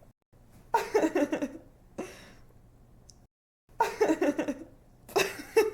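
A young woman laughing in repeated bursts of quick, pulsing giggles, three main bursts with a short one between the first two. The laugh cuts off abruptly into dead silence between some of the bursts, as in an edited, looped sound effect.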